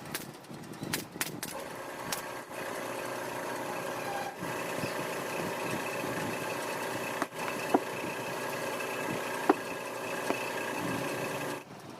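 A motor runs with a steady hum of several held tones, stops abruptly near the end, and a few sharp clicks come before it starts.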